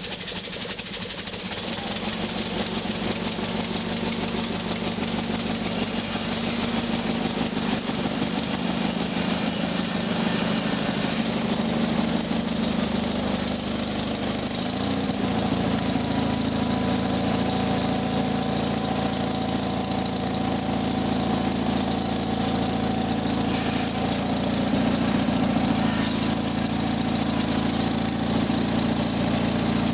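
GT/19.9 garden tractor's engine running after a hard cold start, its speed and pitch rising about halfway through and then holding steady.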